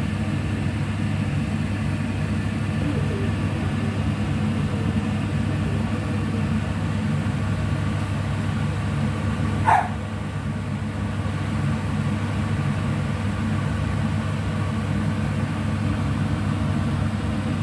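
Steady low mechanical hum, like a motor or appliance running, with one short high-pitched sound about ten seconds in.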